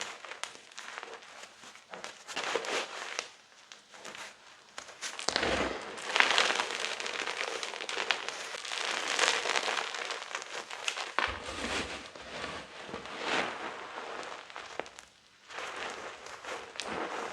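Blocks and chunks of gym chalk being crushed and crumbled, giving dense, irregular crunching and crackling with a couple of short pauses.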